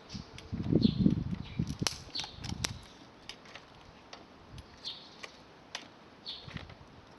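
Campfire crackling with scattered sharp pops and clicks, while a bird gives short falling chirps every second or so. Low thuds and rustling of handling come in the first few seconds.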